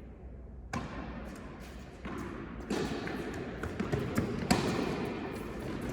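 Tennis ball being struck by rackets and bouncing on an indoor court: a few sharp knocks spaced a second or two apart over a steady background din.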